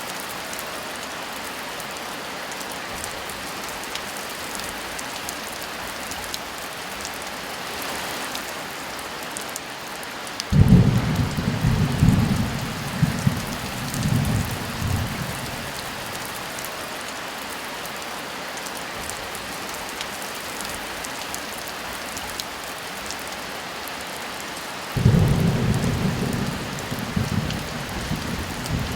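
Steady heavy rain with two rolls of thunder: one rumbles in about ten seconds in and rolls on with several swells for about five seconds, and a second starts near the end.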